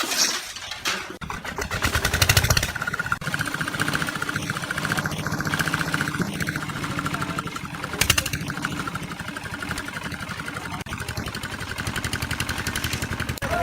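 An engine running steadily with a fast, even beat, getting briefly louder twice.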